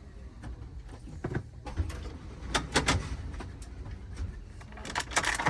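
Low rumble inside a passenger railcar with scattered clicks and rattles, bunched in two louder clusters, about halfway through and near the end.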